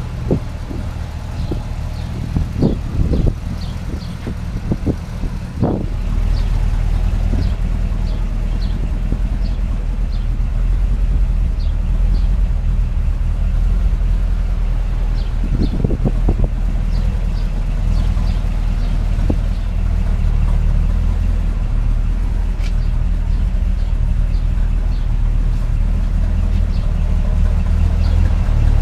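1957 Chevrolet 3100 pickup's engine running steadily with a low hum. A few knocks sound in the first six seconds; then the engine sound becomes louder and steadier.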